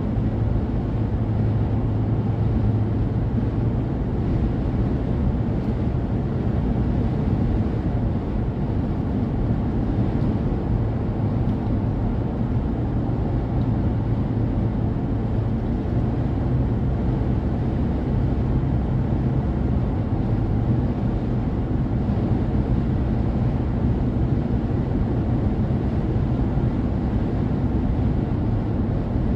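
Steady low rumble of a car driving at speed: road and wind noise with no breaks or changes.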